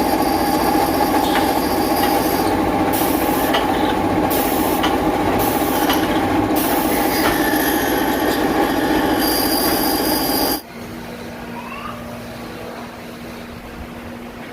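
Electric woodworking power tool running and working wood with a loud, steady whine. It cuts off suddenly about ten and a half seconds in, leaving a fainter steady hum.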